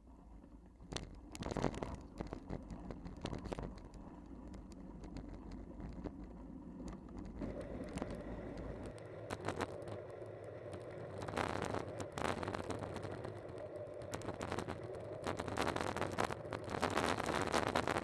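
Riding noise from a bike on the move: irregular rattles and knocks over a rushing hiss, with a steadier hum joining about halfway through and the rattling loudest near the end.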